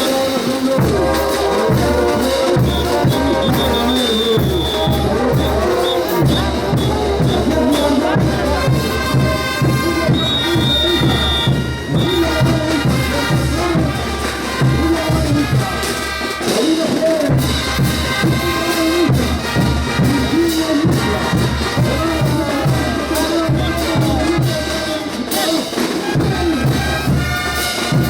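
Bolivian brass band (banda de bronces) playing ch'uta dance music continuously, with trumpets and trombones carrying the melody over a steady drum beat.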